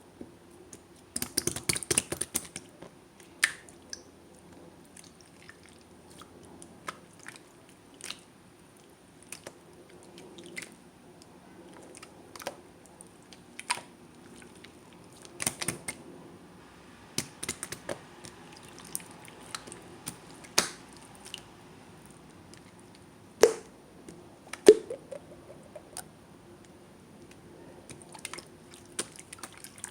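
Slime being squeezed and pressed by hand: scattered wet, sticky clicks and small air pops, with a quick run of them about a second in and two louder pops near the end.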